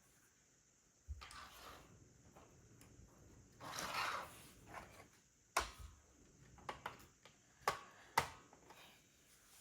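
Plastic Lego pieces being handled: a rustling shuffle about four seconds in, then several sharp clicks, the two loudest near the end.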